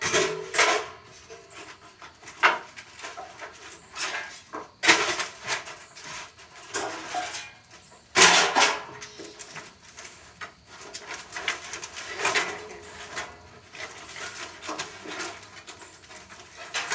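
Wooden boards knocking and scraping against each other as they are set down and stacked by hand. Irregular knocks, the loudest about eight seconds in.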